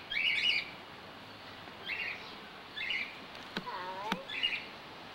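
Small bird chirping in short calls, roughly one a second. Just past the middle come two sharp clicks about half a second apart, with a short squeak between them.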